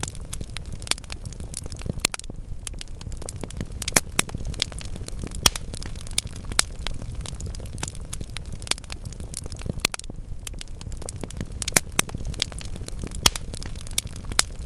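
Wood fire burning in a fireplace: a steady low rumble of flames with irregular crackles and sharp pops from the burning logs, a few louder pops standing out.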